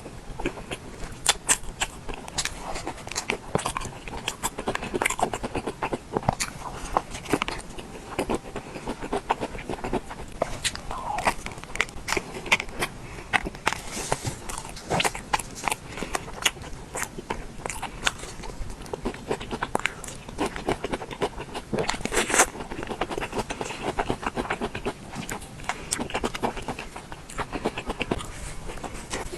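Close-miked ASMR eating of soft cream desserts and mochi: chewing with many irregular mouth clicks and smacks. One louder click comes about three quarters of the way through.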